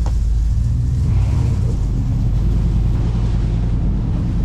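OBS Chevy pickup truck running while being driven, a steady low engine drone with road noise.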